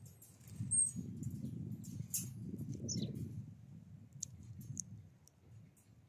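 Several short, high bird chirps, one falling in pitch about three seconds in, over a steady low rumble.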